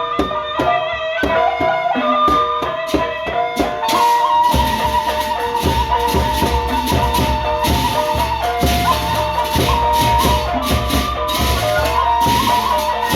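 Gendang beleq ensemble playing: struck pitched strokes at first, then about four seconds in the big drums and clashing cymbals come in under a held melody line.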